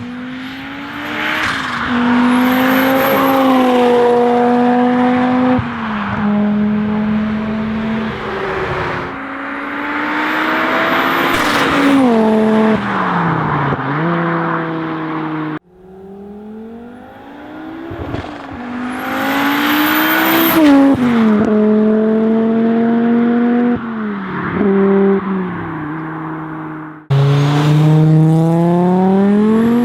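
Audi RS2 Avant's tuned 600 hp turbocharged 20-valve inline five-cylinder engine accelerating hard through the gears. The pitch climbs, drops at each shift and climbs again over several separate runs, with the sound cutting abruptly from one run to the next.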